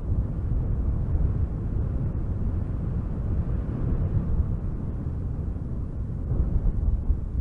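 Strong wind gusting through spruce trees: a low, continuous rushing that swells and eases.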